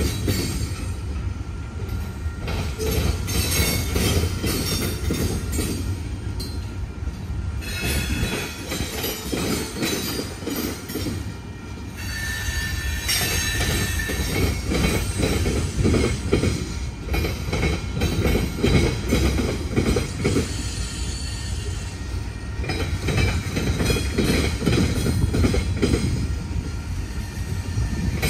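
Freight cars of a Norfolk Southern train rolling past at steady speed: a continuous low rumble with the clickety-clack of wheels over the rails, and high wheel squeals that come and go.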